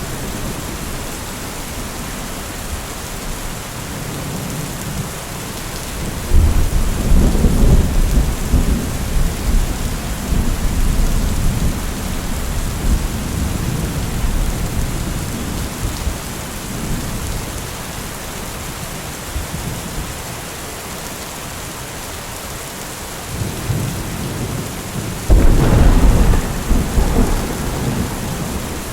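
Steady rain falling, with two heavy rolls of thunder: one breaks about six seconds in and rumbles away over several seconds, the other sets in suddenly near the end.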